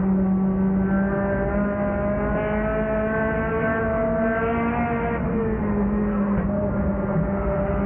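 Race car engine heard from inside the car at speed. The engine note climbs slowly for a few seconds, drops about five seconds in as the throttle eases, then holds steady.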